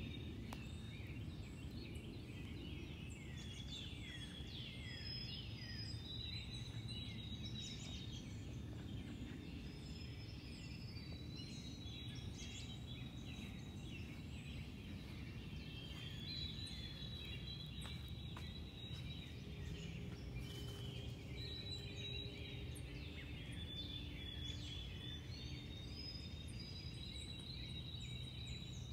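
Songbirds chirping and trilling, with quick high notes and short downward sweeps, over faint steady low background noise.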